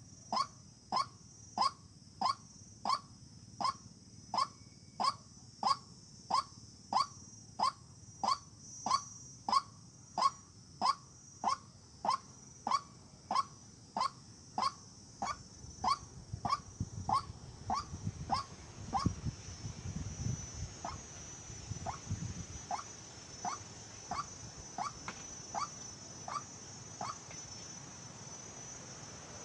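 White-breasted waterhen calling: a short, rising note repeated about twice a second, slowing after the halfway point and stopping a couple of seconds before the end. A steady high insect trill runs underneath, with a low rumble briefly in the middle.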